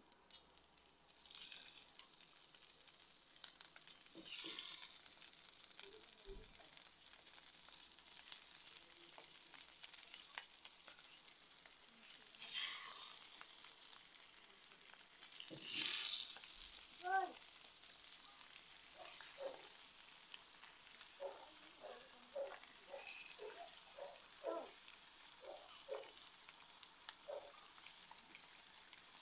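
Onion and garlic sizzling in hot oil in a frying pan. About twelve seconds in, and again about three seconds later, the sizzle flares loudly as whole squid go into the hot oil, then settles into a steady fry with short popping sounds.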